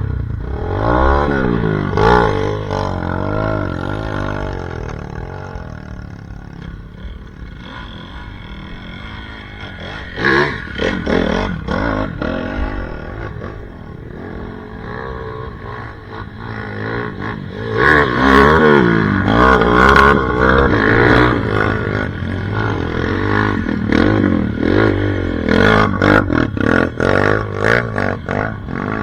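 Dirt bike engine revving up and down over and over as it is ridden on a rough off-road trail, loudest in stretches about ten seconds in and through the second half.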